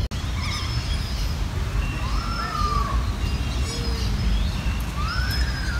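Birds calling: scattered short chirps and high whistles, with two louder arching whistles, one about two seconds in and one near the end, over a steady low rumble.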